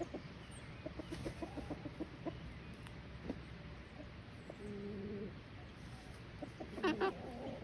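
Backyard chickens clucking: a run of short soft clucks, a drawn-out call about two-thirds of the way through, and a louder call near the end.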